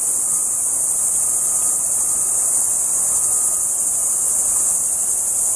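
Steady, unbroken high-pitched shrill of an insect chorus, with no rise or fall.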